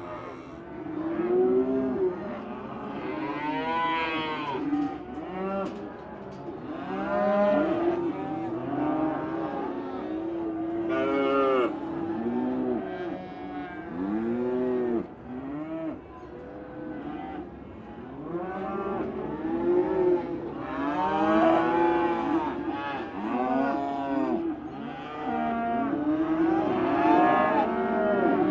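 Many Holstein dairy cows mooing, their calls overlapping almost without pause, each call rising and then falling in pitch.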